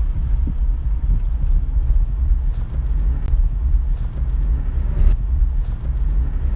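Low, steady engine rumble, like a tractor engine running, with a few faint ticks over it.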